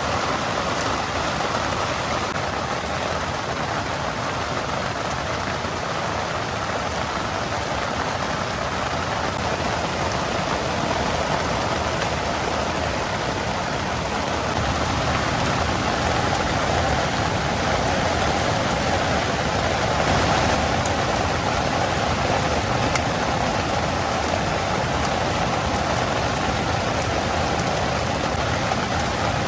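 Heavy rain falling steadily in a continuous rushing hiss, growing a little louder about halfway through.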